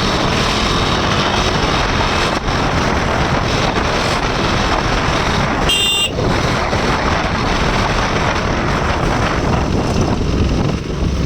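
KTM RC 390's single-cylinder engine running steadily under way, mixed with heavy wind rush on the microphone. A brief high-pitched chirp cuts through about six seconds in.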